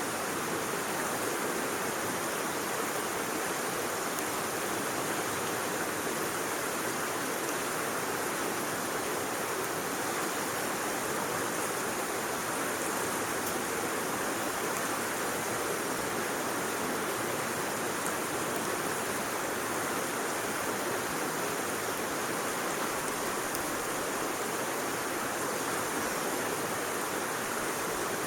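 Steady rushing noise of flowing water, even and unbroken, with no crackles or knocks.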